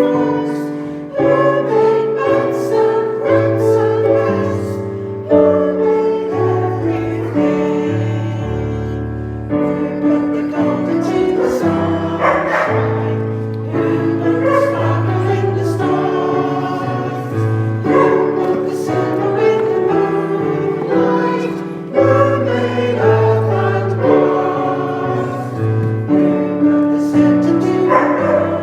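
Choir and congregation singing a hymn, with instrumental accompaniment holding a steady bass line.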